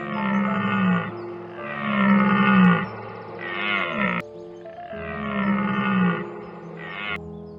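An animal calling over and over, about five long calls of roughly a second each, each falling in pitch, over background music.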